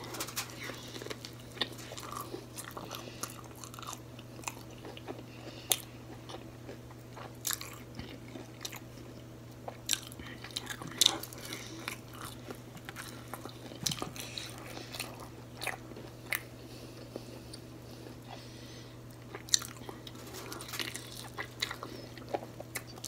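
Close-up eating sounds: a person biting into and chewing battered fried seafood dipped in sauce, crisp crunches and wet mouth clicks coming irregularly, about one to three a second, over a faint steady low hum.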